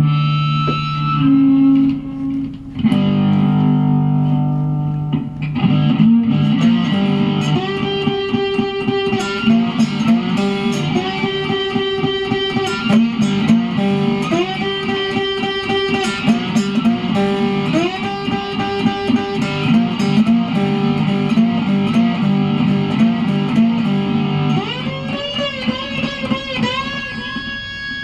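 Electric guitar played solo: a few long held notes, then fast repeating runs of notes, with wavering bent notes near the end.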